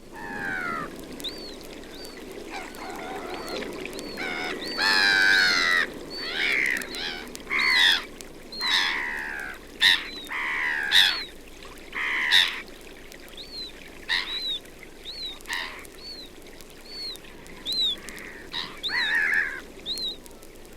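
A flock of black-headed gulls calling: harsh, downward-sliding cries, many overlapping, with short high notes repeating throughout over a steady low background rumble.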